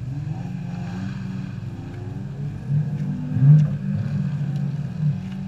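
A car engine running under load, its low note swelling and easing several times, loudest about three and a half seconds in.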